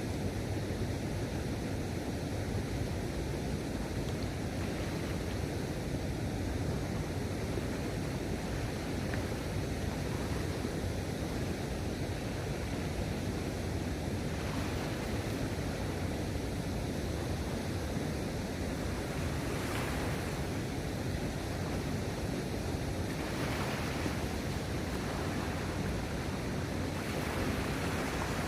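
Steady wind noise on the microphone over sea water washing along the harbour edge, with a few short swells of higher hiss in the second half.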